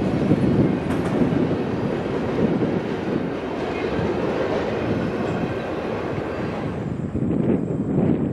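Freight train cars rolling past on the rails, a steady dense rumble of wheels on track. Near the end the higher-pitched rail noise falls away as the train's last cars go by.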